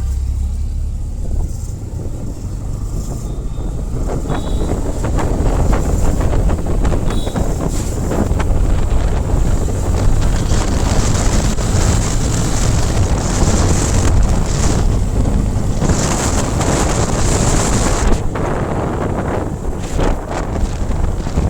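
Wind buffeting the microphone on a moving motorcycle: a loud, steady rush with a heavy low rumble.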